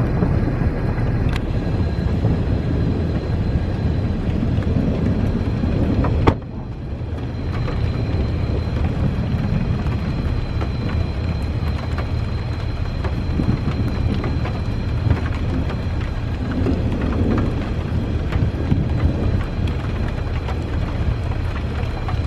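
Thunder rumbling over steady rain from a supercell thunderstorm. About six seconds in there is a sharp click, after which the sound drops suddenly and builds back up.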